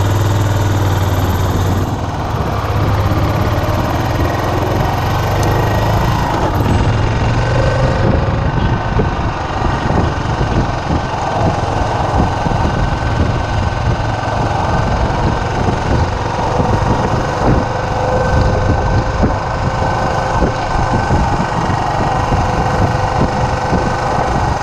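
Suzuki S40's single-cylinder engine running steadily as the motorcycle rides along, heard over continuous road and wind noise.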